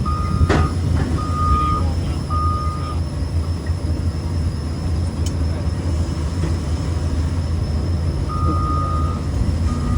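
An engine running steadily with a low hum, over a backup alarm beeping in short repeated tones that stop after about three seconds and start again near the end. A single sharp knock about half a second in.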